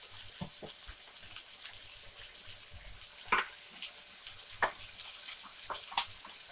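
Brinjal slices and curry leaves frying in oil in a kadai: a steady sizzle with a few sharp pops scattered through it.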